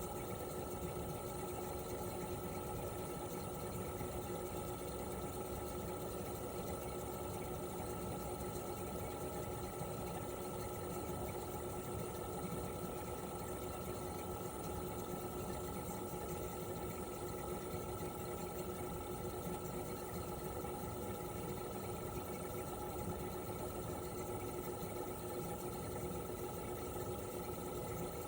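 Toshiba RAS-285BAD air-conditioner outdoor unit running steadily in cooling mode: its twin rotary compressor hums with two constant tones, one low and one higher, over the even rush of the propeller fan.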